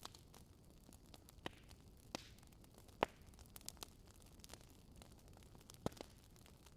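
Wood fire in a fireplace crackling: a handful of scattered sharp pops over a faint low hiss, the loudest pop about three seconds in.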